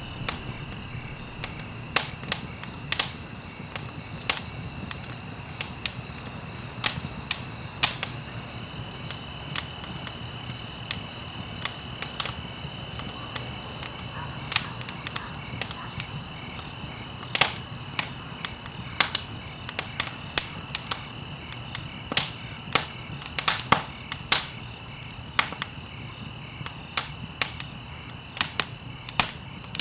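Wood fire in a fireplace crackling, with irregular sharp pops and snaps, several a second at times, over a steady low rumble of the flames. A faint steady high-pitched tone runs underneath.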